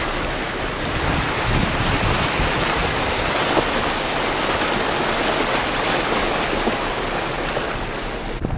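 Steady rushing noise of wind buffeting the microphone, with gusty low rumbles; the hiss cuts off abruptly near the end.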